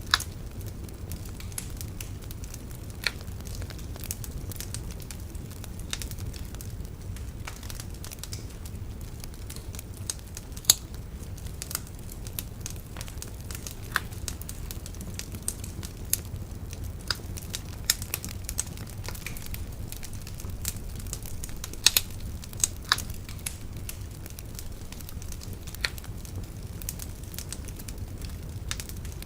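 Wood bonfire crackling, with irregular sharp pops and snaps of burning wood over a steady low rumble.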